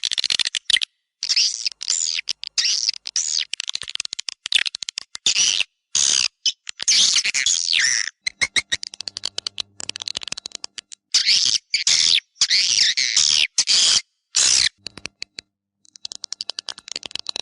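Swiftlets twittering: dense high chirps and rapid clicking in bursts, each cut off sharply into brief silence. This is an edited swiftlet recording of the kind played as a lure in swiftlet houses.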